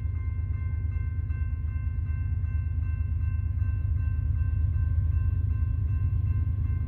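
Distant freight train's diesel locomotives approaching: a steady low rumble that slowly grows louder, with a few faint steady high tones over it.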